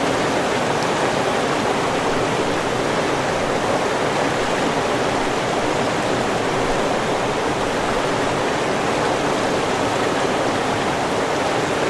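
A river's water rushing and splashing steadily.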